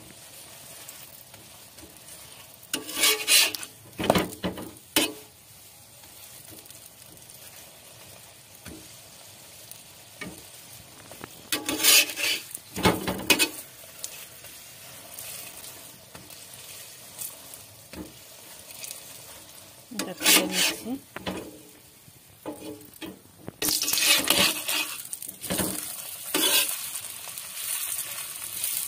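Stuffed cauliflower paratha frying in oil in a hot pan: a steady low sizzle, with louder spells of sizzling and scraping about three seconds in, around twelve and twenty seconds, and again near the end.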